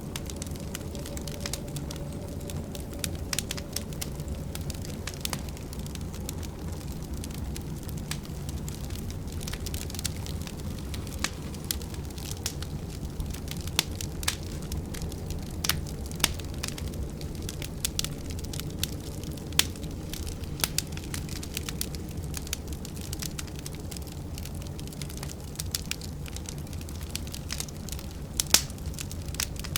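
Wood fire crackling in a fireplace, with irregular sharp pops and snaps over a steady low rumble of storm wind. The loudest pop comes near the end.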